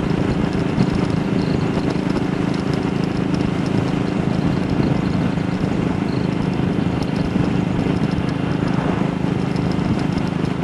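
AJS Model 8 single-cylinder motorcycle engine running steadily with an even beat, under a haze of road and wind noise.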